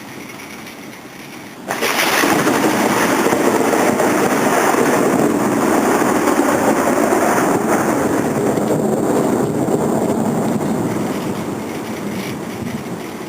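Thunderstorm overhead: a sudden loud rush of storm noise starts about two seconds in, holds for several seconds and fades gradually near the end.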